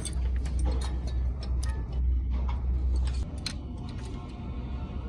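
Workshop sounds: light metal clinks and taps, repeated irregularly, over a low steady hum that cuts off about three seconds in.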